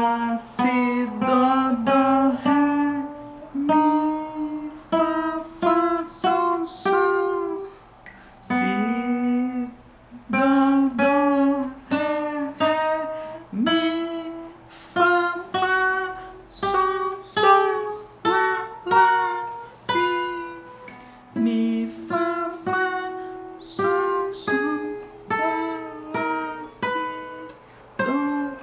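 Acoustic guitar playing single plucked notes one after another, about one to two a second, each note ringing briefly before the next, as the notes of the frets along the neck are sounded in turn.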